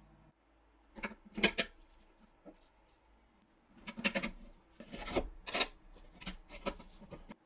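A series of short scraping and rubbing strokes, some in quick pairs: a pair about a second in, a cluster from about four to six seconds, and a few more near the end.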